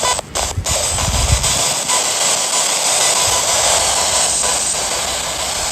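SBox spirit box sweeping through radio stations: a loud, steady hiss of radio static, with two brief dropouts near the start.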